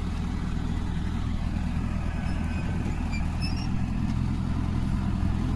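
Mahindra Arjun 555 tractor's diesel engine running steadily as it pulls a 16-disc harrow.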